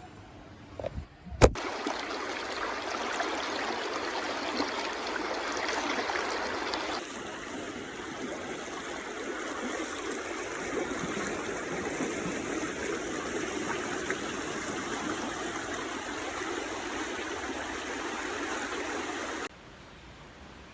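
Stream water rushing steadily. It starts abruptly with a click about a second and a half in, changes in tone about seven seconds in, and cuts off suddenly near the end.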